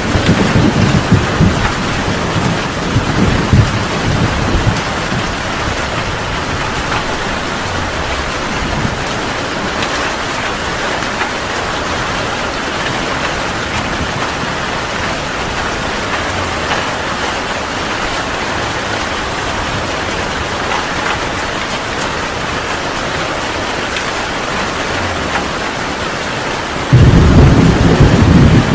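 Heavy rain falling with a steady hiss, with thunder. A low rumble of thunder dies away over the first few seconds, and a sudden loud clap of thunder rolls in near the end.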